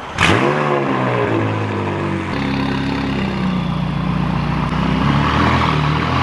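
Car engine cold-starting: it catches suddenly, the revs flare up and drop back, then it settles into a steady fast idle.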